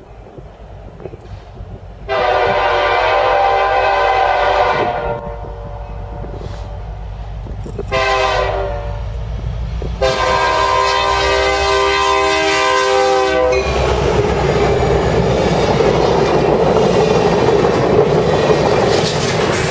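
Diesel locomotive air horn sounding three blasts, long, short, long, the short one dropping in pitch. Then the train rumbles past, with the wheels clacking over the rail joints.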